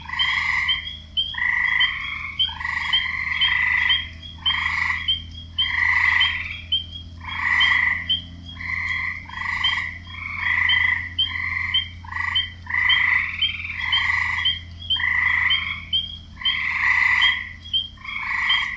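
A wetland chorus of several frogs croaking. Calls come about once a second, under a quicker, higher chirping note that repeats several times a second.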